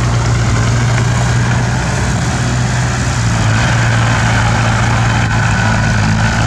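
Heavy construction-machine engine running steadily under a constant low drone, with a faint thin whine coming in about halfway through.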